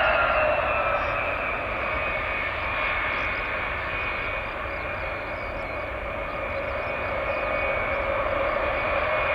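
Jet engines of a Boeing E-8C JSTARS, a four-engine 707-based aircraft, with a whine that falls in pitch over the first couple of seconds as it goes by, then holds steady over a continuous roar.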